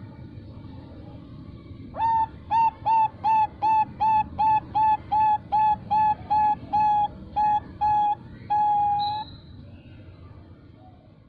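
Female Bangkok-strain zebra dove (perkutut) calling to males: about two seconds in, a quick even run of about fifteen short coos, then one longer held note to close. This is the long ending (ujung panjang) that breeders prize.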